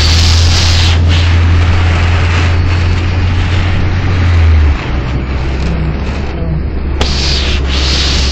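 Car driving through a storm, heard from inside: a steady rush of rain and wind noise over a loud low hum that drops off suddenly a little past halfway.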